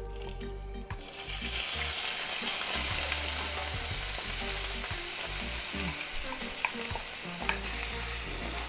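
Food dropped into a hot pan and frying, a loud steady sizzle that starts suddenly about a second in, with a couple of sharp clicks of a utensil against the pan near the end.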